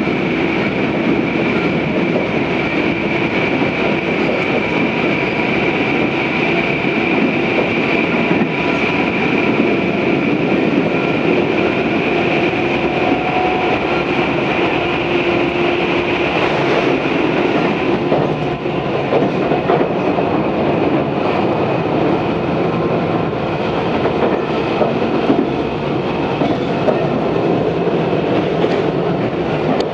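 Tobu 634-series electric train running between stations, heard from inside the car: a steady rumble of wheels on rail with a high steady whine that fades about halfway through. After that come scattered clicks from the rail joints.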